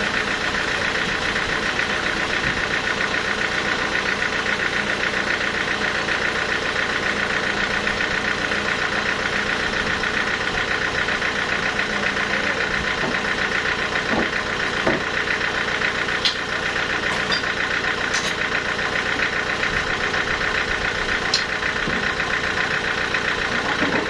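Sawmill machinery running with a steady, even drone, with a few faint knocks in the second half.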